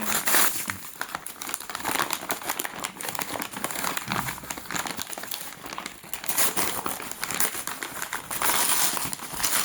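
Packaging crinkling and rustling as a delivered parcel is opened and its contents unwrapped by hand: continuous irregular crackling, loudest near the start and again near the end.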